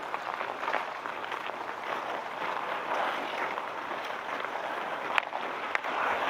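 Outdoor ice hockey game: a steady scraping hiss with a few sharp knocks, the loudest two close together about five seconds in.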